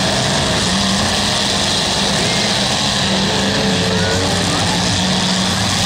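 Several demolition derby cars' engines running and revving together in a dense, steady din.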